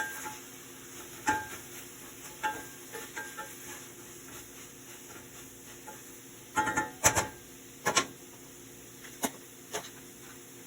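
A metal utensil knocking and clinking against a frying pan at irregular moments, with a cluster of louder clinks about two thirds of the way in. Food frying faintly in the pan underneath.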